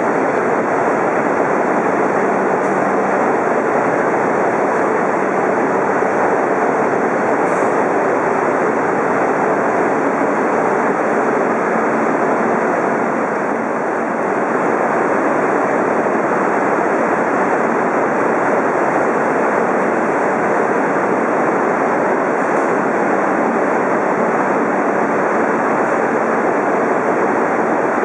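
Loud, steady rushing noise, even throughout, with a slight dip in level about halfway through.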